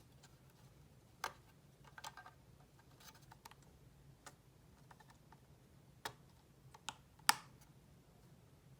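Irregular small clicks and taps of small parts and tools being handled on a work surface, about a dozen in all, the loudest one about seven seconds in, over a faint steady low hum.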